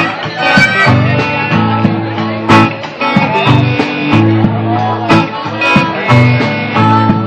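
Live blues-rock band playing: guitars over a repeating low riff, with drum hits and cymbal crashes.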